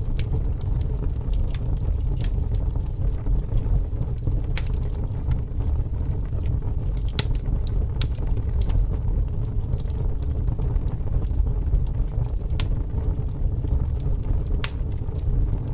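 A fire burning with a steady low rumble, with irregular sharp crackles and pops scattered through it.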